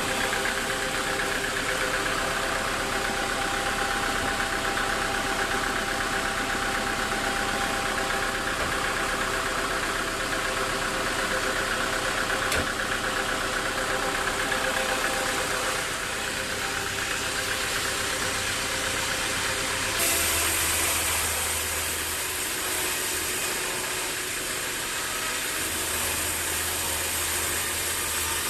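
Sawmill machinery running steadily, a continuous mechanical drone with several steady tones in it. About two-thirds of the way through, the sound changes: a higher hiss and a deeper hum come in.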